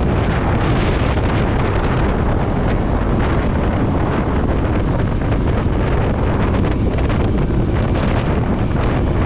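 Wind rushing over the microphone of a moving motorcycle, a steady loud roar heaviest in the low end, with riding noise under it.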